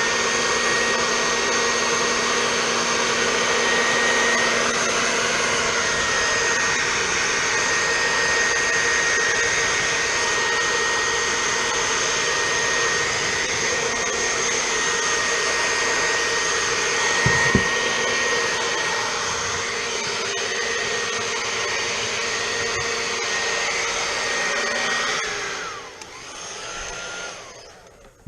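Handheld hot-air blower heating a vinyl phone skin so it softens and sits flush. Its motor spins up at the start and runs steadily with a high whine for about 25 seconds. It then winds down with a falling pitch, is switched on again briefly, and stops.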